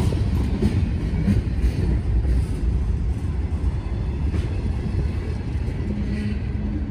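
Freight cars rolling past on the rails: a steady low rumble of steel wheels on track, with faint clicks from the rail joints.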